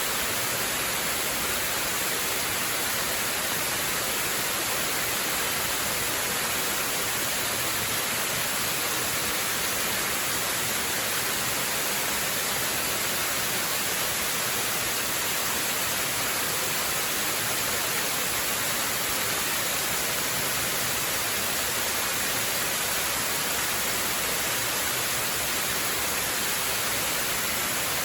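Waterfall: steady rushing and hissing of falling water, even and unchanging throughout.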